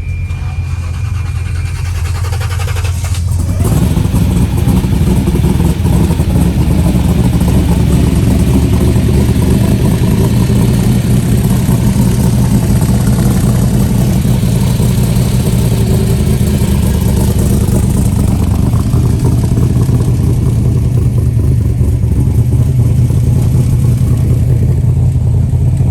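A vehicle engine running close by, low and steady, getting suddenly louder about three and a half seconds in and then holding loud and even.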